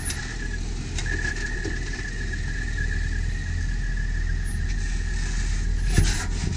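Off-road Jeep crawling over rock, its engine a steady low rumble under a steady high-pitched squeal that breaks off briefly just before a second in. There is a click about a second in and a louder knock near the end.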